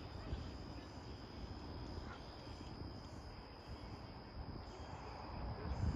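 Crickets trilling steadily in a high, even tone, over a low uneven rumble.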